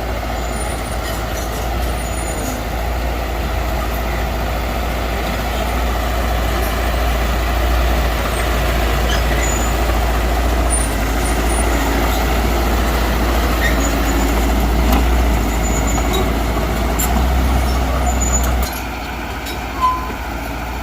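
Diesel engine of heavy earthmoving machinery running steadily at work. The noise drops suddenly near the end, followed by a brief sharp sound.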